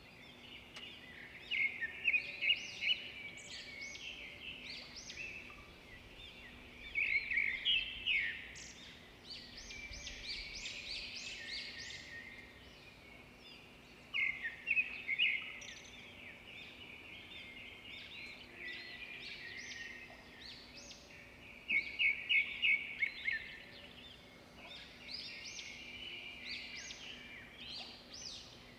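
Birds singing: repeated bursts of high chirps and quick trills, coming in clusters every few seconds, over a faint steady hum.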